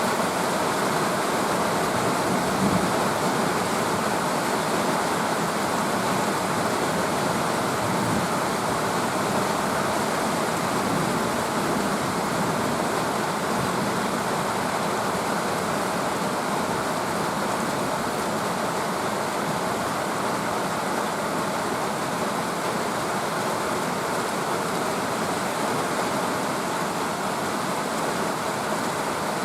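Steady rain falling, an even hiss that does not break or change.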